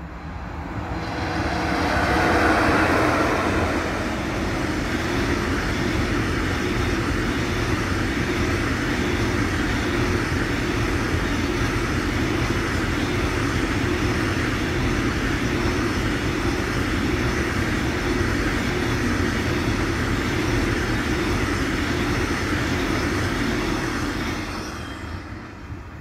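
Freight train passing. It is loudest as the front of the train goes by about two to three seconds in, then the wagons roll past as a steady rumble of wheels on rail for some twenty seconds, fading away near the end.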